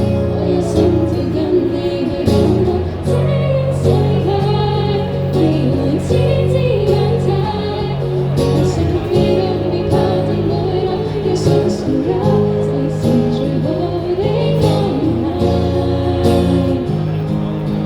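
Live pop-band music: a singer's melody over held bass notes that change every second or two.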